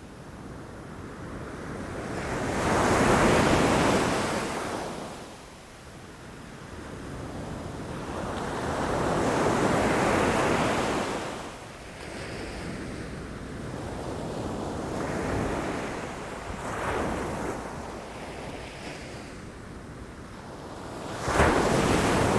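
Ocean waves breaking against rocks. The surf swells and falls back every several seconds, with a sharp, loud crash near the end.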